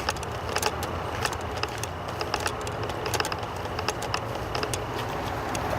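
Footsteps crunching on gravel ballast: irregular sharp clicks, several a second, over a steady low rumble.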